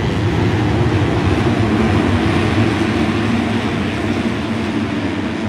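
A pack of 250-class motocross bikes racing, their engines blending into one continuous, wavering sound that stays loud throughout.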